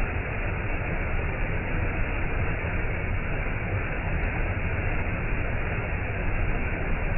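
Waterfall: falling water rushing steadily, an even roar with no change.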